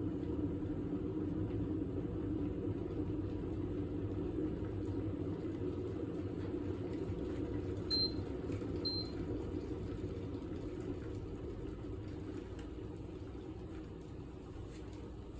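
Kitfort KT-6121 electric kettle heating water, a steady rumbling boil that slowly dies down over the second half, with two short high beeps from the kettle about eight seconds in.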